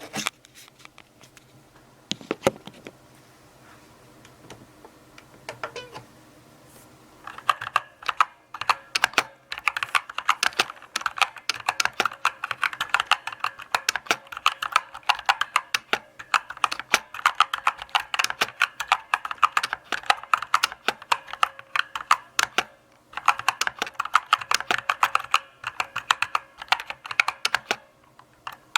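Typing on a mechanical keyboard: a few scattered key clicks at first, then from about seven seconds in a steady run of keystrokes, broken by a couple of short pauses.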